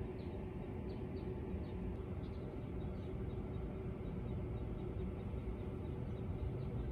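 Faint high chirps of a small bird, a few a second, fading out about halfway through, over a steady low outdoor rumble with a faint hum.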